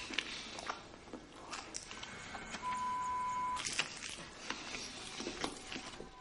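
A single electronic beep, one steady tone held for about a second some two and a half seconds in, over scattered small clicks and crackles.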